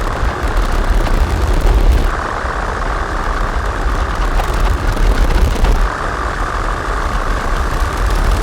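Distorted electronic drone from a Make Noise modular synthesizer (Strega, Maths, Morphagene) run through Death By Audio fuzz and filter pedals: a dense, noisy texture over a heavy low rumble. The texture shifts about two seconds in and again about six seconds in.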